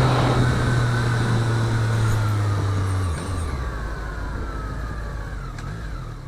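A motorcycle engine running at a steady note whose pitch drops about three seconds in as the revs come down, getting gradually quieter.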